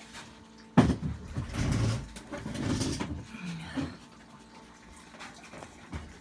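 A chair being set down with a sharp knock about a second in, followed by a couple of seconds of scraping and rustling, then a few light clicks.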